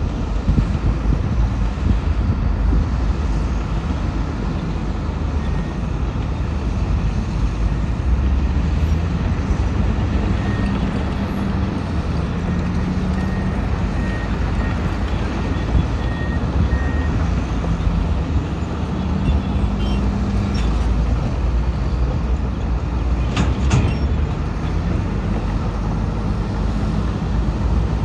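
Heavy diesel earthmoving machinery, a bulldozer and dump trucks, running under load, the engine note rising and falling as they work. Faint short beeps repeat through the middle, and a sharp metallic knock comes near the end.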